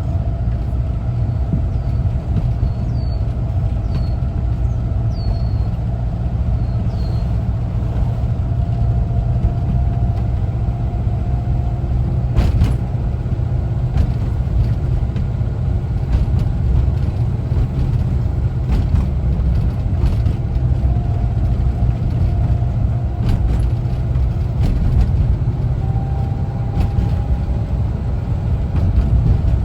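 A 1974 Volkswagen Westfalia camper van under way: the steady low rumble of its air-cooled Type 4 engine and road noise, with a faint whine that drifts up and down in pitch. A few short clicks or rattles come through now and then, and several faint high chirps sound in the first seven seconds.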